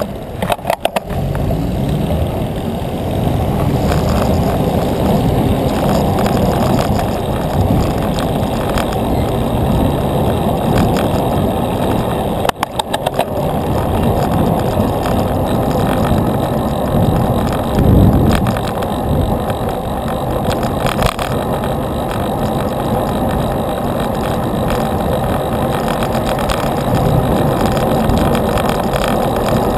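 Steady rush of wind and road noise on a bicycle ride, with motor traffic. There are a few quick clicks about a second in and again around twelve seconds in.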